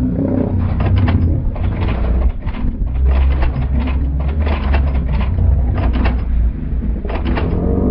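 Lions fighting, snarling and growling in quick irregular bursts over a steady low rumble.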